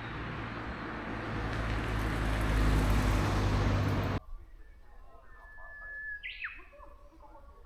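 A vehicle running with road noise and a low engine hum, growing louder, then cut off suddenly about four seconds in. Birds calling in quiet surroundings follow, one holding a thin steady whistle and then giving quick rising notes near the end.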